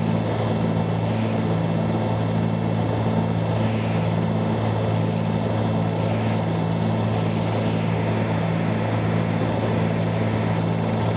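Steady drone of a 1974 Cessna 310Q's twin piston engines and propellers in flight, heard inside the cabin: an even hum with several low steady tones that do not change.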